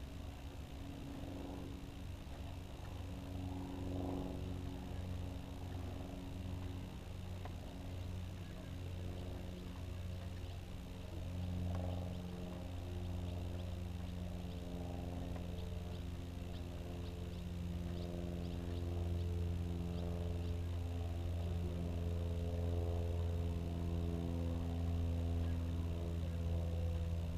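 Honda Gold Wing motorcycle engine running steadily while riding, a smooth low hum whose pitch shifts slightly a few times and grows a little louder in the second half.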